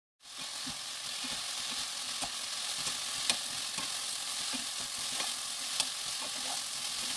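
Julienned peeled bellflower root (doraji) sizzling as it is stir-fried in a nonstick frying pan, stirred with a wooden spatula. The steady sizzle starts suddenly just after the beginning, with a few sharp clicks of the spatula against the pan.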